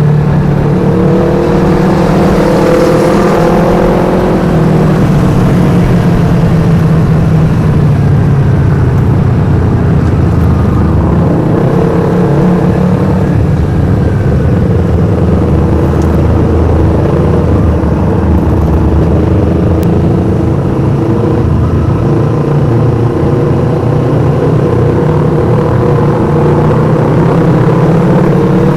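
Yamaha R25 parallel-twin engine running through a Black Devils aftermarket exhaust, loud throughout. The revs rise and fall in the first few seconds and again near the end, and hold steadier in between.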